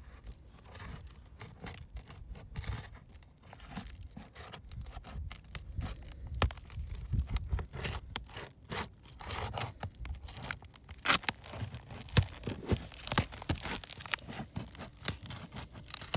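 Asphalt shingle being pried up with a roof snake, its sealant bond crackling and the shingle tearing in a string of irregular cracks and scrapes that grow louder and busier partway through. The tearing marks the shingle as failing: brittle, with heavy mat transfer, it will not lift off intact.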